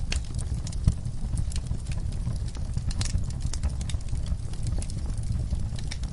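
Wood fire in a fireplace crackling: irregular sharp pops and snaps over a steady low rumble of the flames, with one louder pop about a second in.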